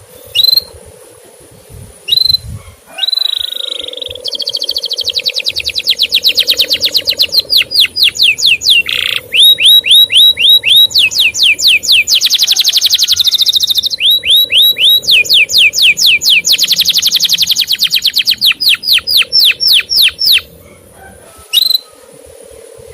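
Male canary singing: a few single chirps, then a long song made of runs of rapid repeated notes, many of them quick rising sweeps, ending in a lone chirp.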